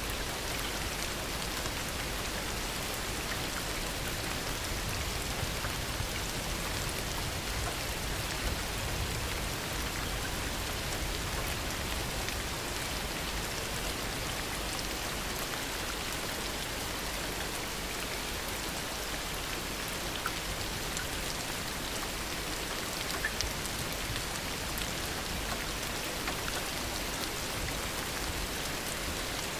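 Heavy rain falling steadily, with a dense hiss of drops and scattered louder individual drop ticks.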